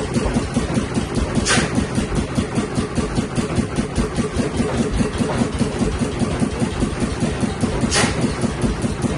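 Stationary engine running steadily with an even beat of about four to five strokes a second. Two short hisses about a second and a half in and near the end.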